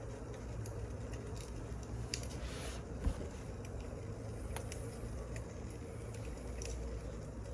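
Burning firewood crackling: scattered sharp pops and clicks over a steady low hum, with a short rustle about two and a half seconds in.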